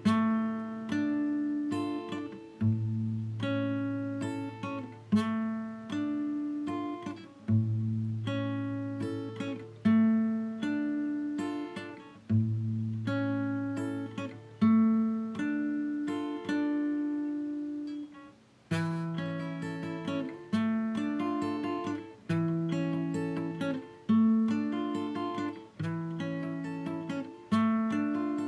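Acoustic guitar music: separately picked notes over a low bass note that comes back about every two and a half seconds. About two-thirds of the way through, the bass line moves higher.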